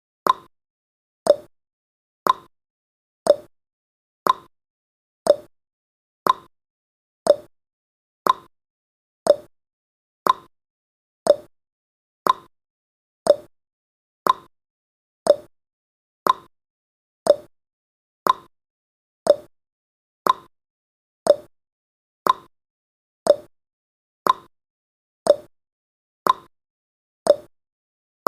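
Countdown timer's ticking sound effect: one short, sharp tick every second, evenly paced and fading quickly after each one.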